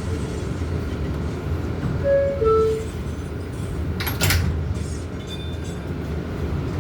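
Low steady rumble inside an R188 subway car at a station. About two seconds in, the two-note door chime sounds, the second note lower. About four seconds in, the doors close with a short hiss and thud.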